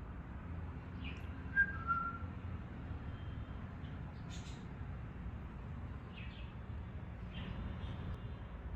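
Pet parakeet giving two short whistled notes, the second a little lower, followed by a few faint brief chirps, over a steady low room hum.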